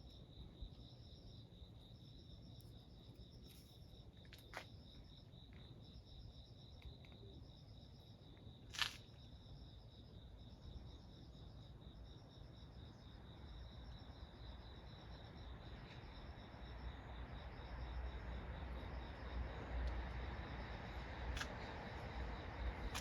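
Crickets singing: a steady high trill with a second, pulsing trill above it in short repeated phrases. A single sharp click sounds about nine seconds in, and low noise swells over the last several seconds.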